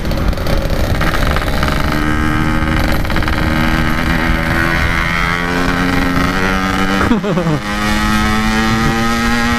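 Yamaha RX-King 135 cc two-stroke single-cylinder motorcycle engine under way, pulling up through the revs. The pitch drops sharply about seven seconds in at a gear change, then it runs on steadily in the higher gear, with wind rushing over the microphone.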